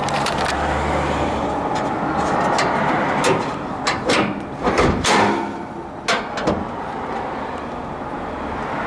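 A classic muscle car's hood being opened: a handful of clicks and metal knocks from the latch and hood, mostly around the middle, over steady road-traffic noise.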